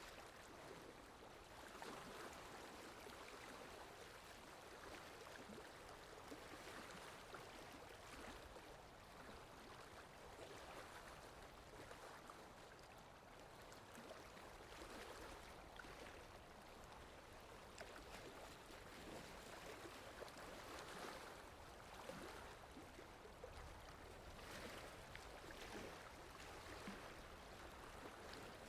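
Water lapping gently, faint, with a soft wash rising and falling about every two seconds, over a low rumble of wind.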